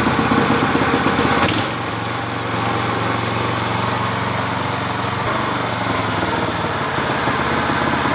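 Honda GX-series small engine running fast. About a second and a half in there is a click and the speed drops to a lower, steady pitch that holds evenly: the governor is working normally, keeping the speed stable as the throttle lever is moved.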